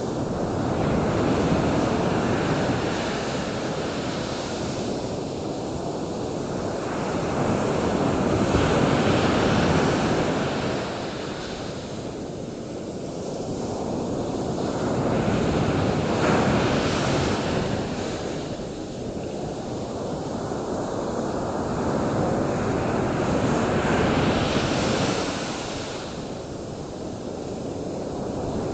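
Surf: waves breaking and washing in, a steady rush that swells and eases about four times, roughly every seven to eight seconds.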